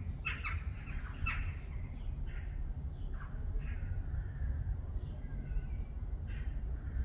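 Garden birds calling: a quick run of harsh calls in the first second and a half, then scattered single calls, over a steady low rumble.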